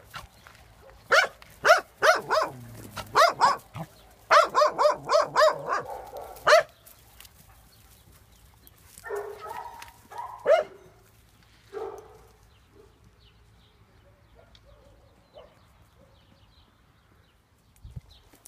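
Dogs barking: a string of loud barks in the first seven seconds, with a fast run of several barks a second about four seconds in, then a few softer barks around ten to twelve seconds in.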